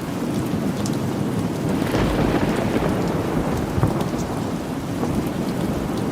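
Steady rain with a low rumble of thunder that swells about two seconds in. Scattered sharp ticks sit over the rain throughout.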